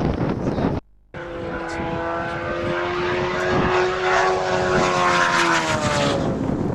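A high-revving engine passing at speed: one steady note held for several seconds that drops in pitch as it goes by, with wind on the microphone. A brief cut to silence about a second in.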